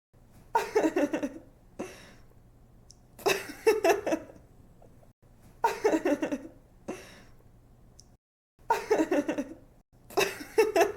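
A young woman laughing in five short giggling bursts, each a quick run of ha-ha pulses that falls in pitch, with brief pauses between them.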